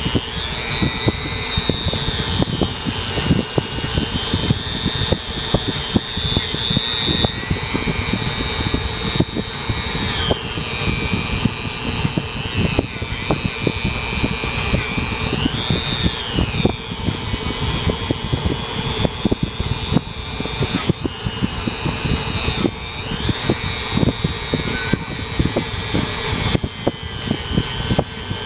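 Dremel rotary tool with a wire wheel running at high speed, a high whine that sags in pitch each time it is pressed in and picks back up, over a dense scratching rattle as it scours carbon deposits.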